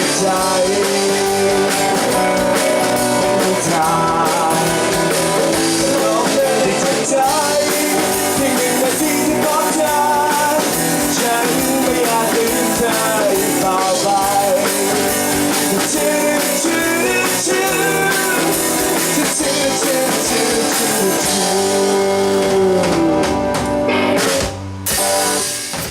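Live rock band playing: drum kit, bass and guitar, with a bending melody line over them. The music breaks off briefly near the end, comes back for a moment, and then stops.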